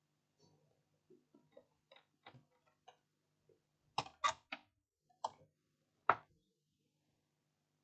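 Small sharp clicks and taps of multimeter probe tips on a laptop motherboard's components: a few faint ones, then five louder taps close together over about two seconds, over a faint steady low hum.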